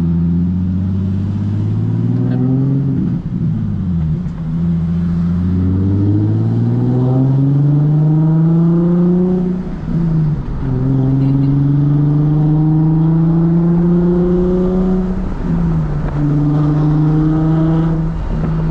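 Nissan 370Z's 3.7-litre V6 with a loud aftermarket exhaust, accelerating hard through the gears. The engine note climbs steadily in long pulls and drops sharply at each of four upshifts.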